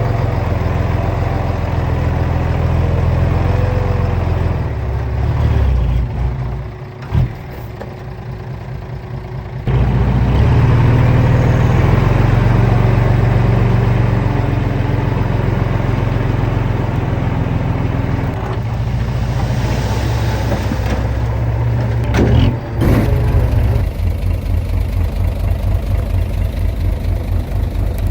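Heavy diesel engine of earthmoving machinery running steadily, its sound changing abruptly about ten seconds in and again past twenty seconds, with a couple of short knocks; near the end it settles into an even, pulsing low idle.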